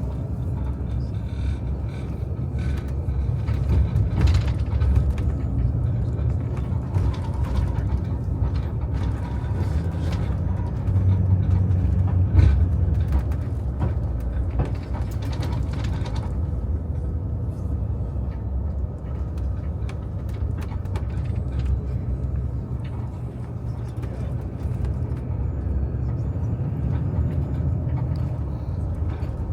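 Steady low road rumble inside a moving vehicle: engine and tyre noise on the road. In the first half there are scattered light clicks and rattles.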